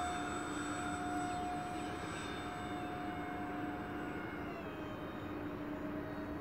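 Electric ducted fans of a radio-controlled model airliner whining steadily in flight over a rushing air noise, the pitch dropping slightly about four and a half seconds in as the throttle eases or the plane passes.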